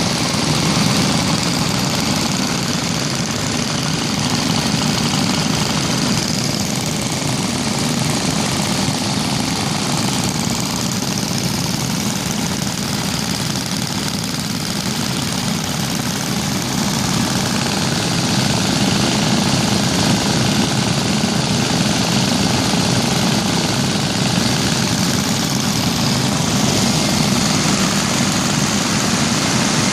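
About twenty vintage Briggs & Stratton single-cylinder engines, mostly Model N's, all running at once, their exhaust beats blending into one steady, dense chatter.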